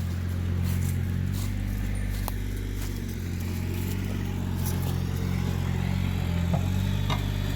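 Yanmar compact tractor's diesel engine running steadily, with a few faint clicks.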